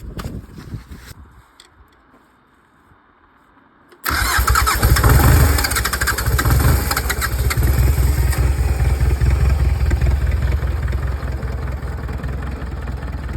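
Ford tractor's diesel engine cold-starting without its glow plugs warmed. After a short quiet it suddenly catches, about four seconds in, and runs hard for a moment. It then settles to a steady idle.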